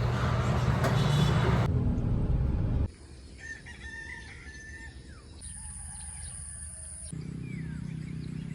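A rooster crowing loudly, then about three seconds in a quieter stretch of short bird chirps.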